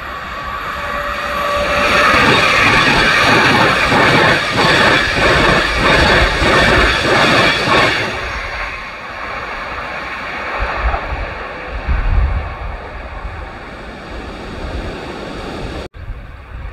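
LNER Azuma high-speed train passing at speed. A rush of noise builds up and grows loud, with a quick regular clatter as the wheelsets go by, then dies away into a low rumble. The sound cuts out abruptly near the end.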